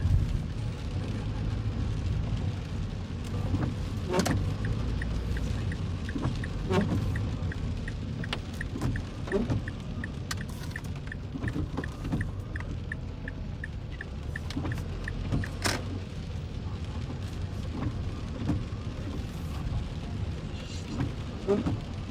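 Car driving in the rain, heard inside the cabin: a steady low road rumble, with a regular ticking at about two to three a second from about four seconds in until about fifteen seconds in, and a few sharp knocks.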